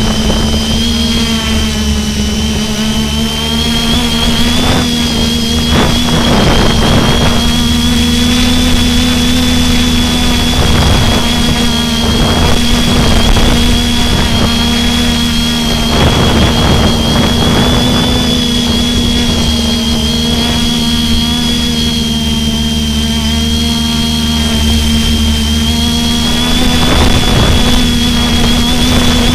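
Eurocopter EC135 helicopter running: the twin turboshaft engines give a steady high turbine whine over a constant low hum and the rush of the rotors.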